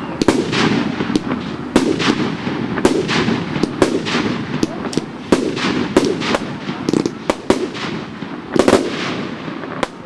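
Fireworks going off: a continuous run of sharp bangs and crackles at irregular intervals, several a second, with a louder cluster of bangs near the end.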